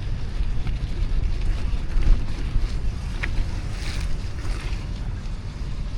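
Wind buffeting the microphone of a camera riding on a moving bicycle: a steady low rumble. A brief click comes about three seconds in.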